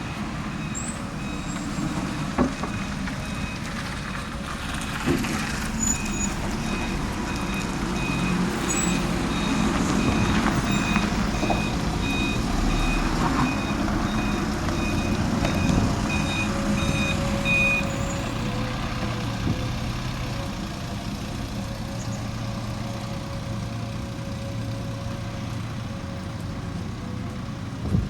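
A bus's reversing alarm beeping in a steady run over its idling diesel engine, stopping about 18 seconds in. A few short, sharp sounds break in, with the engine running on.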